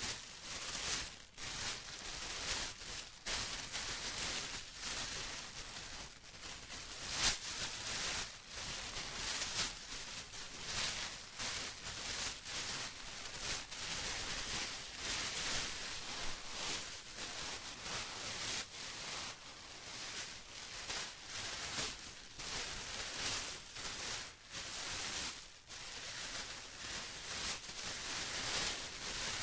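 Plastic rustling and crinkling continuously: an irregular crackle thick with sharp crinkles, with a few brief lulls.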